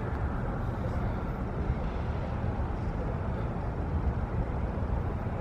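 Steady city background noise: a low, even hum with no distinct events.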